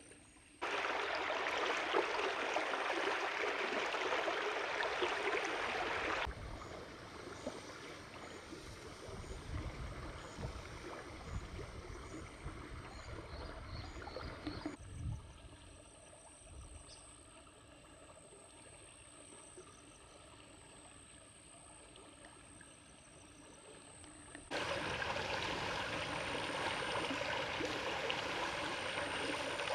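Running stream water rushing steadily, broken by hard cuts into separate clips. Between the clips come a stretch with wind gusting on the microphone and a quieter stretch with faint, high, repeated chirps.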